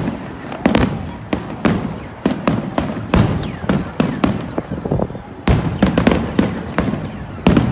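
Aerial fireworks finale: a rapid run of sharp shell bursts, one or two a second, with crackling between them and a heavier burst near the end, the bangs echoing off nearby skyscrapers.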